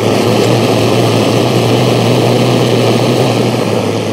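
Abenaki antique high-power butane torch (rated 7,600 kcal) with its valve opened to full, the flame jetting with a loud, steady rushing noise over a low hum, much like a passing mosquito-fogging truck.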